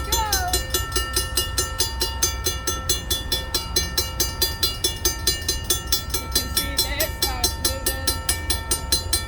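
Railroad grade-crossing warning bell ringing rapidly and evenly, about five strikes a second, its tones hanging on between strikes, over the low steady rumble of idling SD40-2 diesel locomotives.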